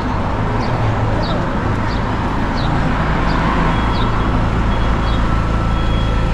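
Street traffic with a vehicle engine running steadily, and a small bird giving short high chirps over and over, about one every two-thirds of a second.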